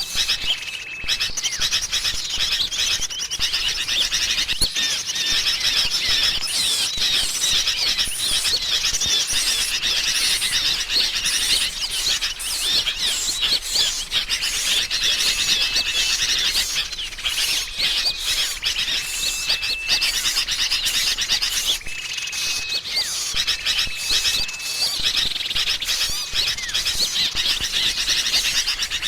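Bird-lure recording of agitated, noisy sooty-headed bulbuls (kutilang) mixed with other small birds: a dense, unbroken chorus of overlapping chirps and chattering calls, with a short thin whistle held at one pitch that recurs several times. It is the excited calling used to draw small birds in.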